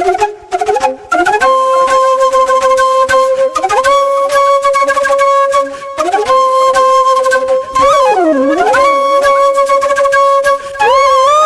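Solo flute melody as background music: a run of quick short notes, then long held notes that step up slightly, break off briefly, and slide down and back up near the end.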